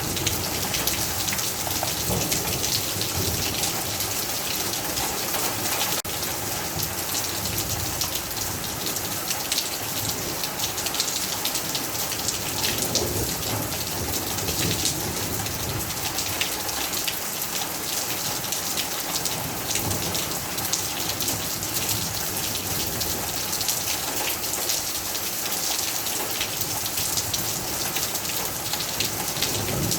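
Steady rain falling: an even hiss of drops with many small, sharp patters of drops hitting a surface.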